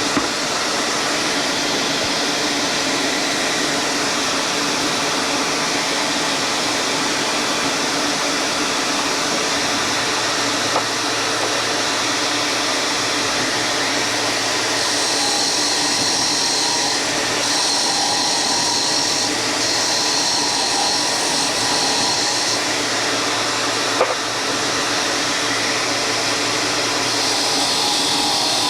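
A power tool running steadily in a woodshop, with a few brief knocks. A higher whine joins in a little past halfway and lasts several seconds.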